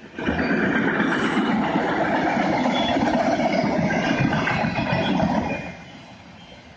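Freight train autorack cars rolling past, a loud rumbling rattle of wheels and cars that starts suddenly and drops away after about five and a half seconds to a quieter steady roll.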